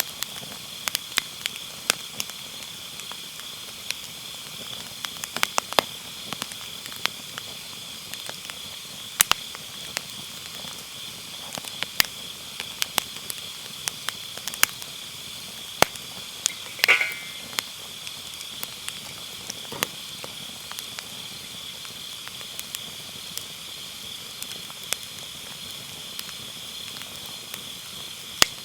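Firewood burning with irregular sharp crackles and pops, over a steady high-pitched chirring of autumn night insects. About two-thirds of the way in, one louder burst with a brief falling squeal.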